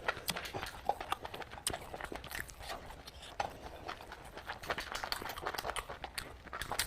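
Close-up eating sounds: a person chewing and smacking their lips, a steady run of irregular clicks.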